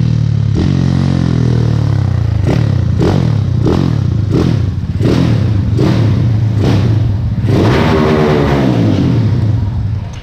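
Motorcycle engine running and revving, its pitch rising and falling, with a quick run of short sharp knocks through the middle.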